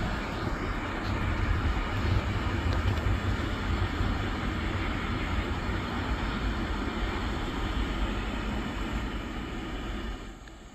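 Freight cars of a train rolling along the rails, a steady low rumble of wheels on track that drops off abruptly near the end.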